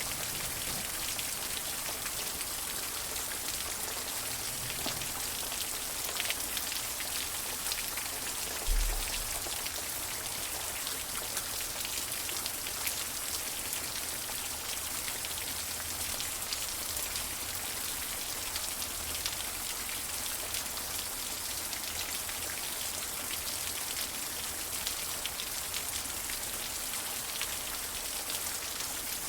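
Steady rain falling, with individual drops heard as sharp ticks through it. A short, low thump stands out about nine seconds in.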